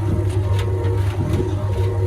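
Hoover HNWL7146 washing machine running its Airing programme, heard from inside the drum: a steady motor hum with a few light knocks as the drum turns.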